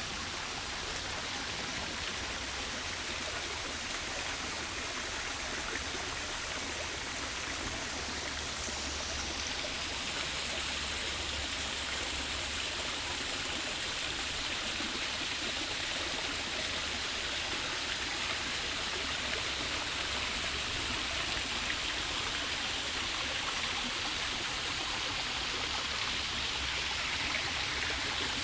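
Steady rush of running water, growing a little louder after about ten seconds.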